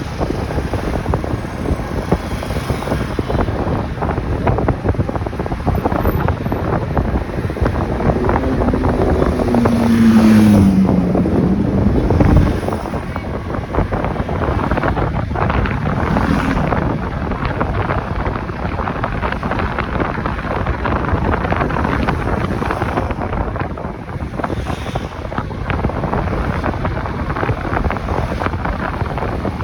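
Wind buffeting the microphone on a moving motorcycle, over steady engine and road noise. About eight seconds in, a louder engine note swells and falls in pitch for a few seconds, then fades back into the steady rumble.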